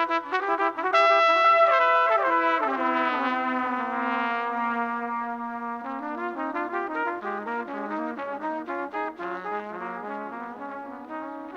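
Trumpet playing a jazz melody line. A held note is followed by a falling run into a long low note, then quick back-and-forth notes.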